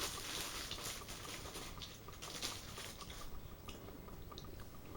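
A person chewing and biting food. A rustling hiss fades over the first second, then there is only faint crackly chewing.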